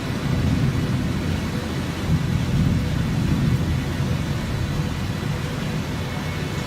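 Strong storm wind buffeting the microphone: a steady low rumble with no breaks.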